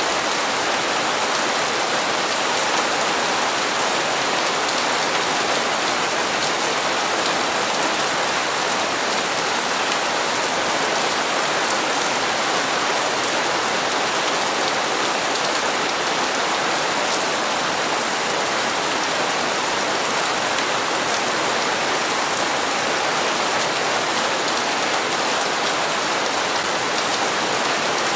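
Steady rain falling, an even hiss with faint drop ticks and no change in intensity.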